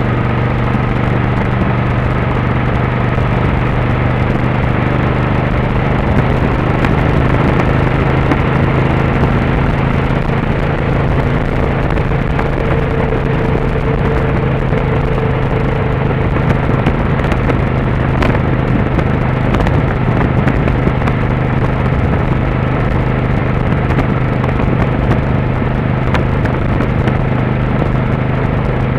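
Motorcycle engine running at a steady cruising speed, a constant drone under a rush of road and wind noise.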